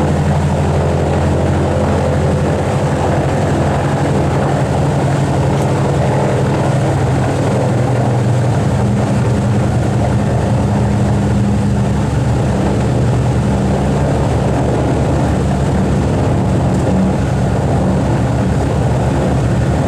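Boeing B-29 Superfortress's four Wright R-3350 radial piston engines and propellers running with a steady, loud drone.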